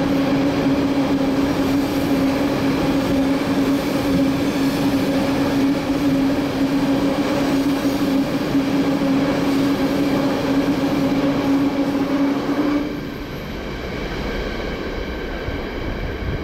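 Train running on the Semmering railway: a steady rail rumble with a held humming tone. About 13 seconds in the tone stops suddenly and the sound drops to a quieter rumble.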